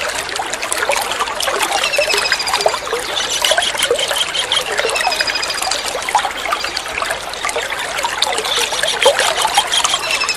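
Kingfisher calling a short, rapid, slightly falling trill, repeated every couple of seconds over steadily trickling and splashing water.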